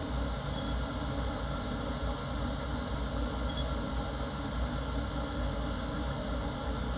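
A workshop machine's electric motor running steadily, a low, even hum with a hiss over it and no change in pitch or load.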